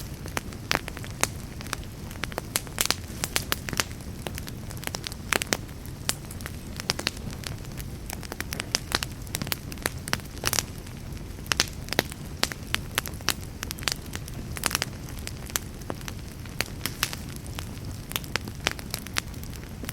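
Fireplace fire crackling, with frequent sharp pops over a low, steady rumble of the flames.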